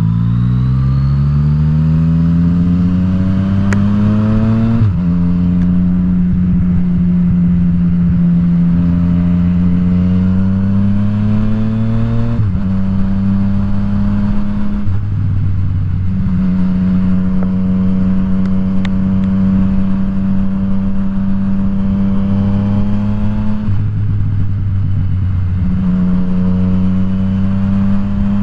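Yamaha FZ-09's inline three-cylinder engine pulling up through the revs while riding, then cruising at fairly steady revs with sudden pitch steps at gear changes, first about five seconds in and again around twelve and twenty-four seconds in.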